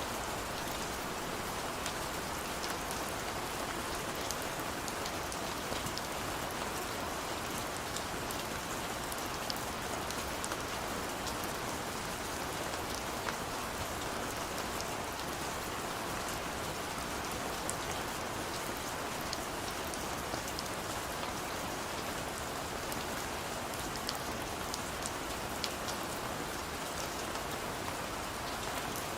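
Steady rain falling, a dense even patter with scattered individual drops ticking sharply on a hard surface.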